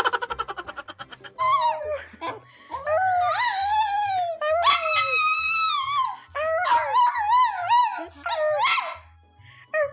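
A dog howling: a string of long, high, wavering howls that slide up and down in pitch, over background music with a repeating bass line. A quick rattle of clicks, dying away within a second, comes just before the howls.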